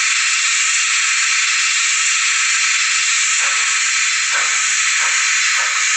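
Steam locomotive sound from a model railway DCC sound decoder: a loud, steady steam hiss, joined about three and a half seconds in by exhaust chuffs that come quicker and quicker as the locomotive starts moving.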